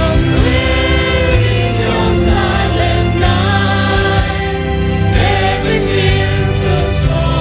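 Church choir singing a Christmas gospel song over sustained instrumental accompaniment.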